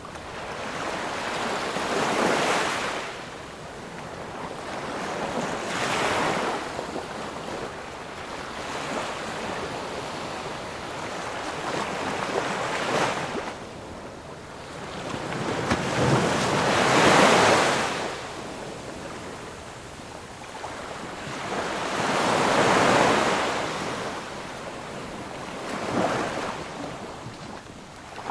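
Ocean waves breaking and washing on a shore, a steady hiss of surf that swells into a louder surge every few seconds, about six times, the biggest a little past halfway.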